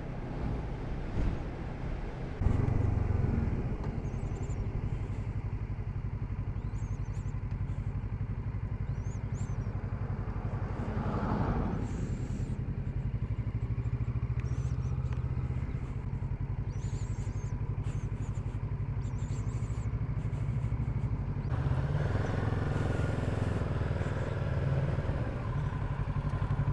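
Motorcycle engine running steadily under way, stepping up in level about two and a half seconds in.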